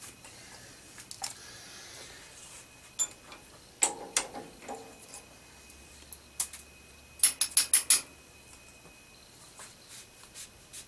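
Small metal tools being handled and set down in a machine shop: scattered clicks and clinks, then a quick run of about five sharp metallic clicks about seven seconds in.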